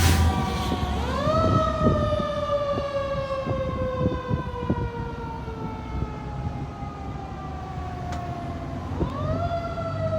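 Fire truck siren on a slow wail: it rises quickly about a second in, falls slowly for several seconds, then rises again near the end. A heavy engine rumbles loudly at the start as the truck passes.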